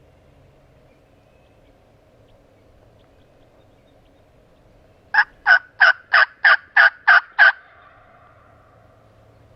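A series of eight turkey yelps, short raspy notes about three a second, starting about halfway in and lasting a little over two seconds.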